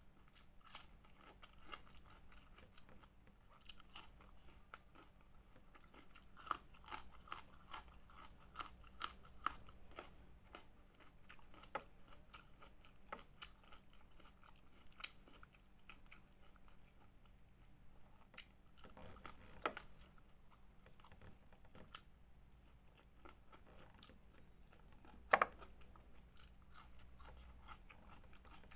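Close-miked eating sounds of raw young ginger root and fried fish with rice: chewing with many crisp crunches and small mouth clicks, thickest a few seconds in. One sharp, louder crunch comes near the end.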